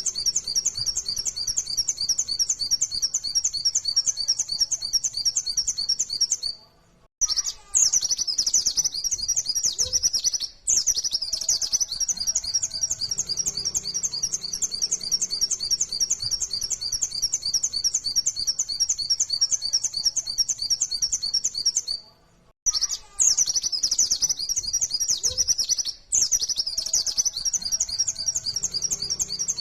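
Pleci (white-eye) singing a fast, dense run of high chirping notes with hardly a pause, broken by two short silences about 7 and 22 seconds in.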